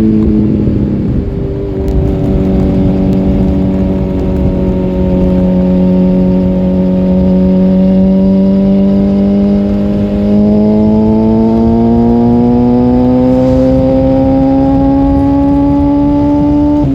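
Suzuki GSF 650 Bandit's inline-four engine running through a Dominator oval exhaust with the dB killer removed, under way. The revs drop sharply right at the start, hold steady for several seconds, then climb slowly through the second half as the bike accelerates.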